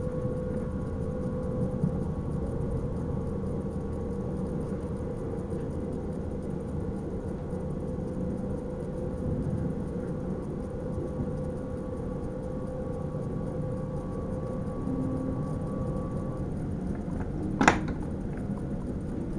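Running noise of a Sprinter electric train heard inside the driver's cab: a steady rumble with a steady hum over it. The hum stops about three seconds before the end, and soon after comes one sharp click.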